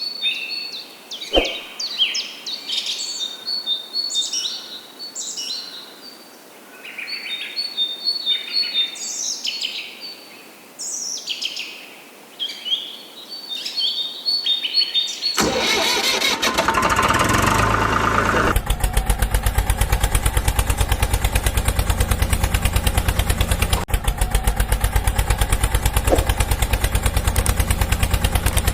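Birds chirping and whistling in short repeated phrases for about the first half. About halfway through a small DC motor switches on and runs with a steady, fast-pulsing buzz.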